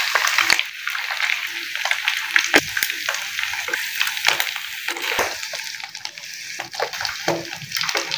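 Kebabs shallow-frying in hot oil in a pan: a steady sizzle, loudest in the first half-second, with frequent crackles and pops.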